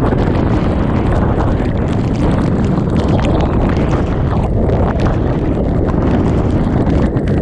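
Typhoon eyewall wind blowing hard and buffeting the microphone, with torrential rain and spray lashing: a loud, unbroken rush heaviest in the low end, shot through with many small sharp hits.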